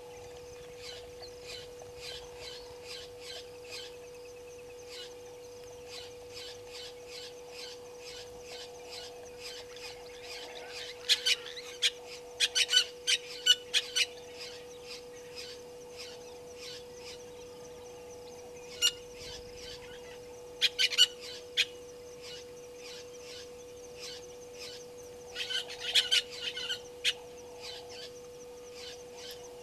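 Birds calling: sharp, high chirping notes in several rapid bursts, the loudest about a third of the way in and again near the end, over a steady hum.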